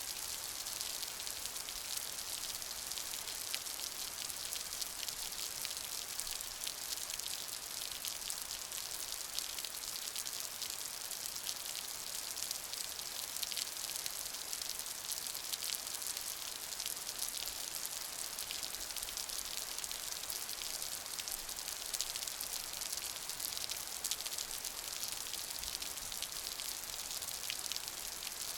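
Steady rain with many close, fine drops pattering on a surface: a dense, even hiss with no let-up.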